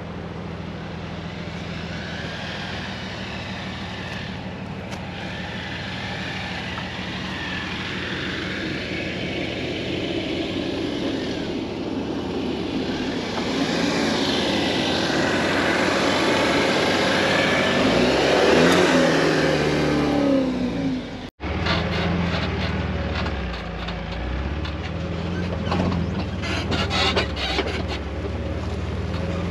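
Jeep engine running while driving off-road, with broad road and wind noise building over the first twenty seconds. The sound cuts out abruptly about twenty-one seconds in, then the engine is heard running again, with a run of short rattling clicks near the end.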